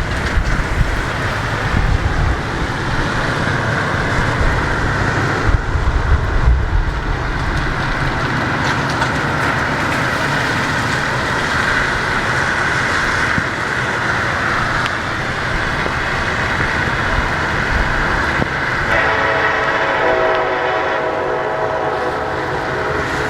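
Norfolk Southern freight train passing, its diesel locomotives working under throttle with the wheels rumbling on the rails. A long horn blast sounds about nineteen seconds in and runs to the end.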